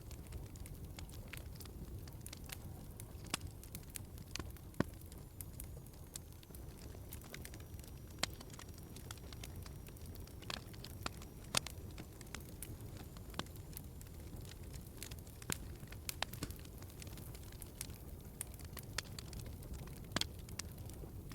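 Wood fire burning with a steady low rumble and irregular crackles and pops, a few sharper pops now and then.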